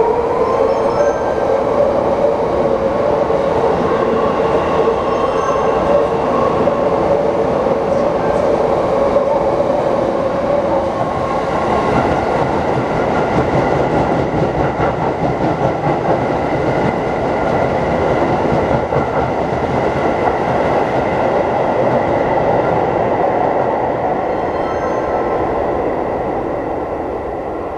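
Electric commuter train running along the platform track, its wheels clattering on the rails, with a steady whine through the first half that drops away around the middle; the noise fades near the end.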